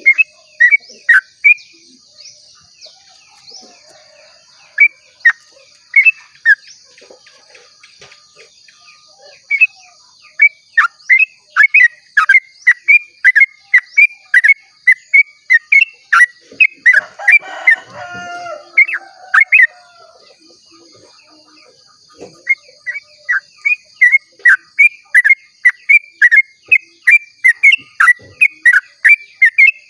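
Yellow-vented bulbul (trucukan) singing its long rapid run (ropel): sharp chirps repeated about three to four a second, in long strings broken by short pauses. About seventeen seconds in, a lower, different call briefly sounds over it.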